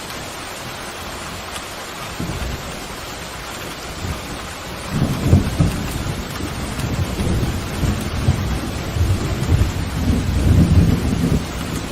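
Steady heavy rain with a long, deep roll of thunder that builds about two seconds in, peaks in the middle and dies away near the end.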